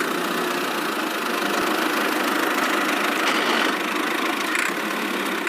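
Small motor of a miniature toy tractor running steadily, an even whirring noise with no clear pitch.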